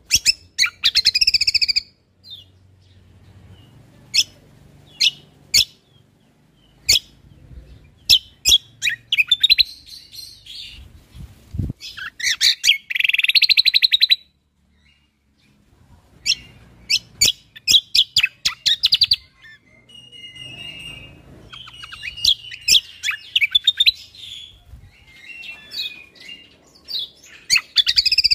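Cucak kombo (kecial kombok) songbird singing competition-style: sharp single 'shot' notes fired off in quick succession, alternating with rapid chattering, trilling phrases. The song stops for brief pauses, about two seconds in and again around the middle.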